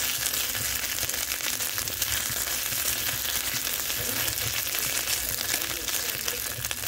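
Ginger paste and chopped green chillies sizzling in hot oil in a wok, a steady frying hiss, while a spatula stirs the mix.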